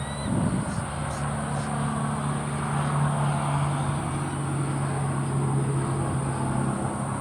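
Motor vehicle engine running with a steady low hum, starting just after the beginning and dying away near the end.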